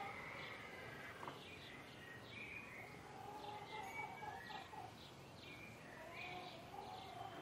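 Songbirds chirping, with many short calls one after another over faint outdoor background noise.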